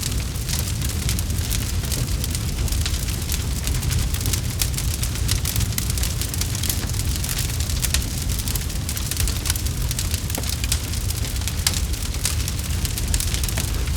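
Campfire crackling steadily, with dense rapid crackles and pops over a constant low rumble.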